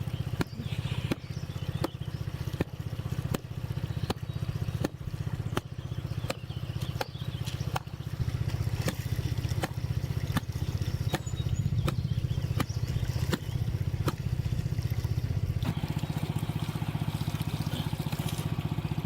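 A small engine running steadily, with sharp knocks repeating about every two-thirds of a second throughout; from about eight seconds in it runs a little louder.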